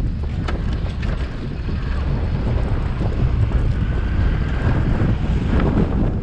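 Wind buffeting an action camera's microphone on a moving scooter: a steady, heavy low rumble.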